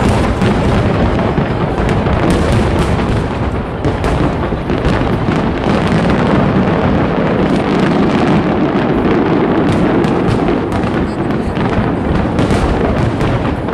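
Aerial fireworks display: a continuous barrage of booms, with many rapid cracks and pops over a steady low rumble.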